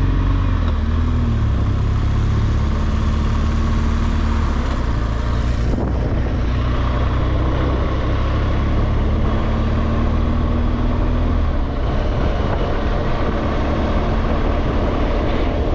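BMW R1200GSA flat-twin engine running steadily under way, with wind noise over the microphone. The engine note changes about twelve seconds in.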